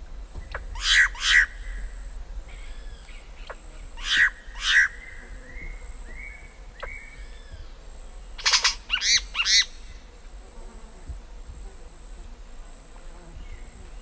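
Yellow-rumped cacique calling at its nest hole: loud, short calls in pairs, about a second in and again about four seconds in, then a quick run of three or four near the middle. Behind them are fainter curved calls of distant birds and a steady high insect drone.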